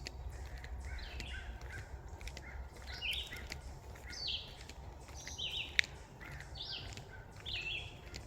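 Songbirds singing in woodland, one bird repeating a short high phrase about once a second. A single sharp click about six seconds in, over a steady low rumble.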